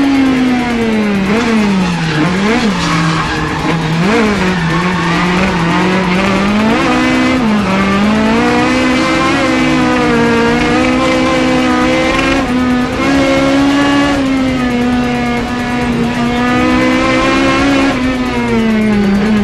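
Naturally aspirated Toyota Corolla KE72's four-cylinder engine revving hard through a run of drifts, its pitch dropping and climbing again several times in the first few seconds, then held high and fairly steady until it drops once more near the end. Tires squeal as the car slides.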